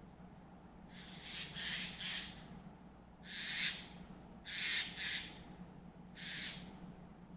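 A bird calling loudly with harsh, screechy calls: three quick calls about a second in, then three more single calls spaced about a second and a half apart.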